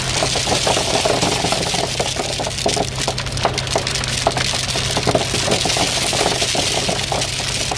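Heavy equipment engine running steadily while loose stone pours and clatters, with irregular rattling and clinking of gravel over a constant engine hum.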